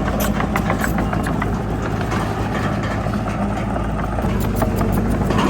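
Heavy diesel earthmoving machinery running steadily, with frequent metallic clanks and rattles throughout.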